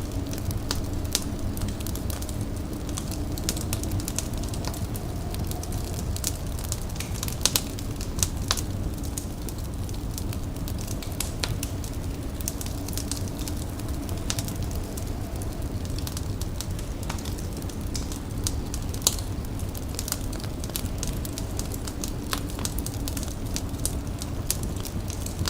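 Wood fire crackling, with irregular sharp pops over a steady low rumble of burning.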